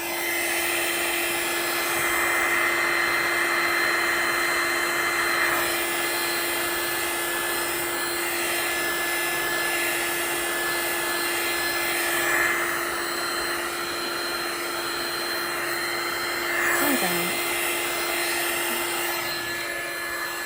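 Heat gun blowing steadily on hot air, switched on at the start, a constant fan rush with a steady hum.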